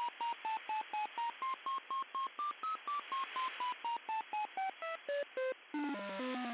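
Unidentified shortwave radio signal: a train of short electronic beeps, about four a second, over radio hiss, their pitch stepping up and then down lower. Near the end the beeps stop and a chord of sustained, gliding tones takes over.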